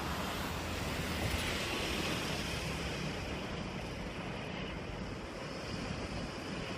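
Steady wind noise on the microphone over the faint, even rumble of a distant Seoul Line 1 electric commuter train approaching on curved track.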